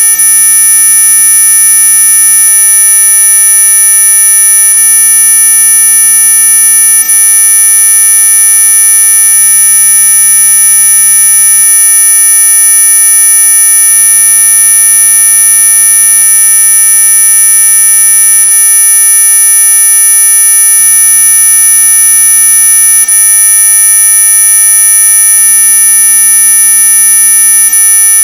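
Synthetic anti-mosquito tone: many steady electronic pitches sounding together, the strongest very high-pitched, held loud and unchanging.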